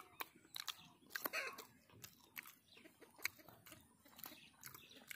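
Faint close-up eating sounds: soft boiled macaroni being chewed, with irregular small mouth clicks and smacks.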